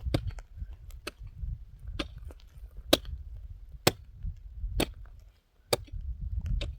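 Sharp chopping strikes of a hand tool, evenly spaced about one a second, seven in all.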